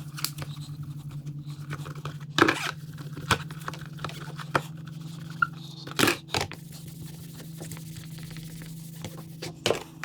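Small metal motorcycle parts being handled and cleaned at a workbench: scattered clicks and knocks, with scraping and rustling between them, over a steady low hum.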